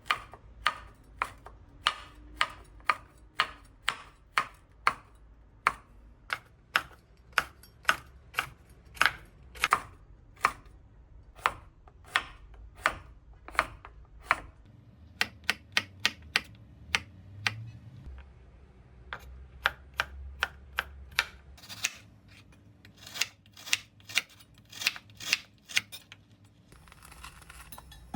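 Kitchen knife chopping food on a cutting board: sharp, regular strokes about two a second, with a couple of short pauses.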